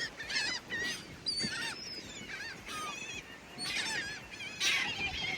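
A flock of seagulls calling: many short, high squawks overlapping in clusters about every second.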